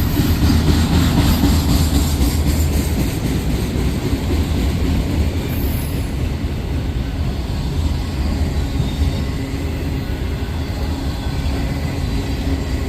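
Freight train cars rolling past, a steady loud rumble of wheels on rail.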